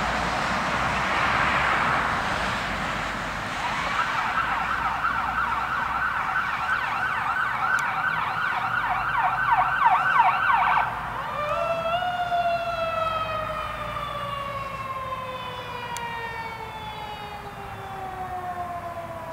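Emergency vehicle siren on a responding fire engine and ambulance. About four seconds in it starts a rapid warbling yelp. Around eleven seconds in it switches to a single tone that rises briefly, then slowly falls in pitch.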